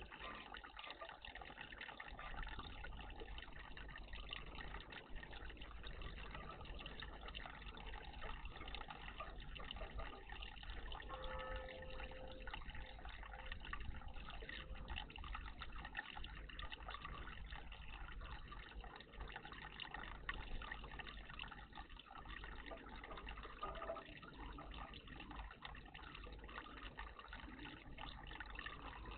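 Water trickling and splashing steadily in a garden bird bath.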